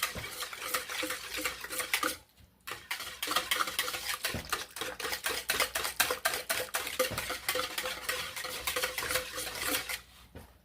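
A utensil beating and stirring briskly in a mixing bowl, knocking against its sides in rapid repeated clicks, with a short pause about two seconds in. Eggs are being mixed into a yeast, sugar and water mixture for bread dough.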